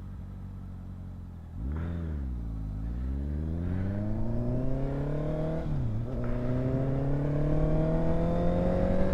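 Honda CBR650's inline-four engine through an aftermarket exhaust: running steadily at low revs, then about a second and a half in it gets louder with a quick rev that rises and dips, before climbing steadily under acceleration. Near the six-second mark the pitch drops briefly for an upshift, then climbs again.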